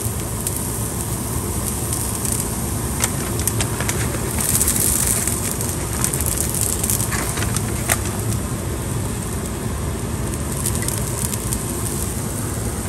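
Plant-based ground beef crumbles sizzling in a hot, oil-sprayed stainless pan as they are poured in and broken up by hand: a steady sizzle with scattered small crackles.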